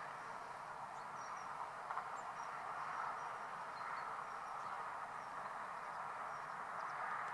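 Faint, thin, high-pitched bird chirps, short and irregularly spaced, over a steady background noise.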